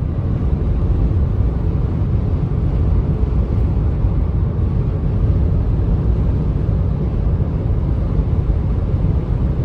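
Pickup truck driving at road speed: a steady, loud low rumble of engine and road noise.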